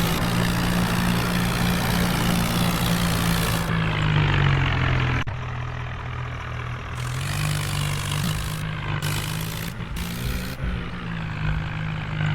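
Tractor engine running steadily under load; its pitch sags about four seconds in, with a sharp click and a drop in level, then picks up again a couple of seconds later.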